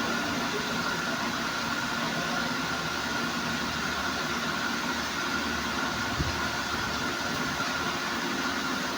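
Steady mechanical drone with a constant thin whine over it, like a running engine or motor, and a single knock about six seconds in.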